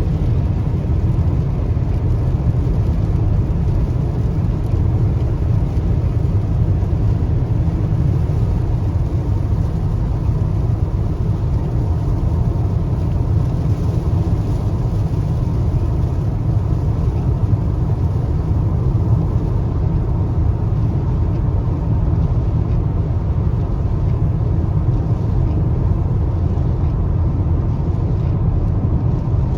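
Car driving: a steady low rumble of road and engine noise that holds even throughout.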